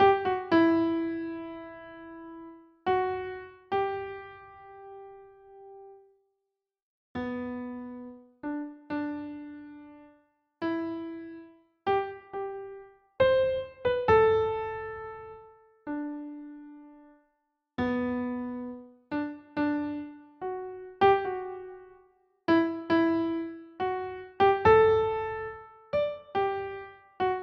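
Slow, sparse solo electric-piano melody: single notes struck one after another, each ringing and fading out, with short silent pauses between phrases.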